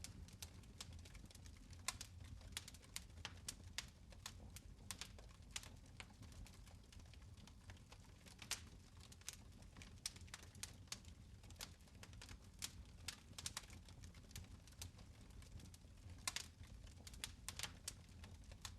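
Fire crackling in a fireplace: faint, irregular sharp pops and snaps, several a second at times, over a low steady rumble.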